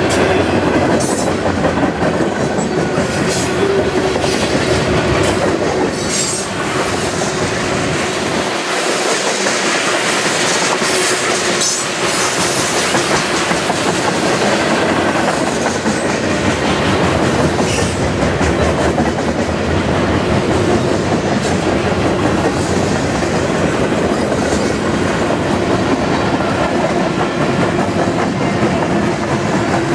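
Freight cars of a passing CN train rolling by at close range: a loud, steady rumble of steel wheels on rail, with scattered clicking as wheels pass over rail joints and a thin, steady wheel squeal underneath.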